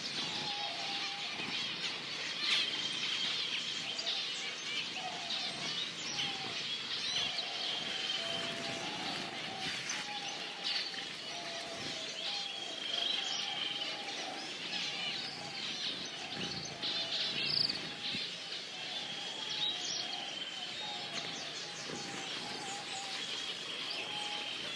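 Many birds calling at once: a dense chatter of high chirps, a short steady whistle that recurs every five seconds or so, and lower warbling calls throughout.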